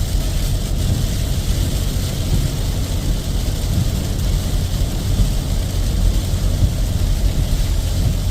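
Vehicle driving on a wet road in the rain: a steady low road rumble with a hiss of rain and tyre spray.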